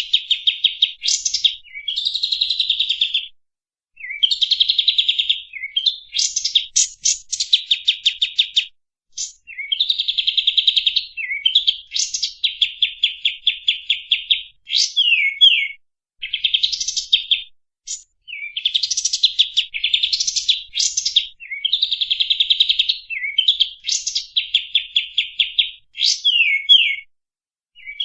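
A songbird singing loud, harsh phrases of rapid repeated notes, each a second or two long, again and again with short gaps, with a few sharp falling whistled notes among them.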